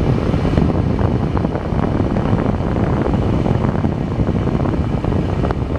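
Vintage Mimar hair dryer running on its low heat setting, its fan motor pushing out a loud, steady rush of air.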